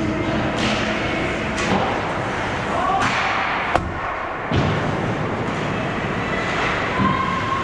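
Ice hockey game in an arena: several sharp knocks of sticks, puck and boards over steady rink noise and distant voices.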